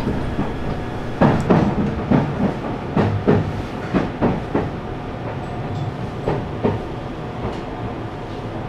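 Interior of a Meitetsu electric train running into a station. The wheels clack sharply and irregularly over rail joints and points above a steady running rumble.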